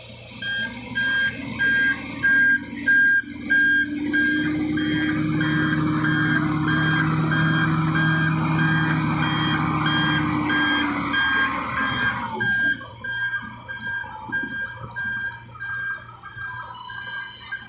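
A truck's reversing alarm beeping steadily, about one and a half beeps a second, while the truck's engine runs and is held at higher revs for several seconds in the middle before easing off about 12 seconds in.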